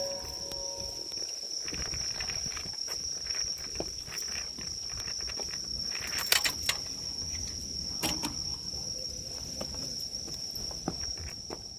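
An insect's steady, unbroken high-pitched trill, typical of a cricket calling outdoors in the evening, with scattered footsteps and light knocks, a couple of them louder about six and eight seconds in.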